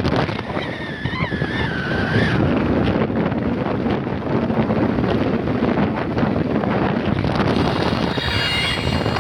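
Wind rushing over the microphone of a moving scooter, with road noise underneath. A brief wavering high tone sounds about a second in, and thin high tones come near the end.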